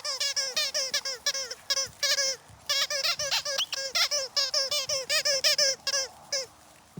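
Dogs chewing rubber squeaky toys: rapid squeaks, about four a second, with a brief pause a little under halfway, stopping shortly before the end.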